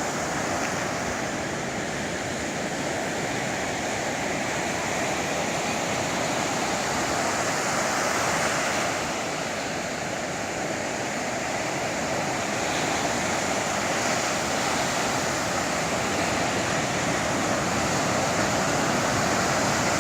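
Sea waves breaking on the shore: a continuous rushing surf that swells a little about eight seconds in and then eases.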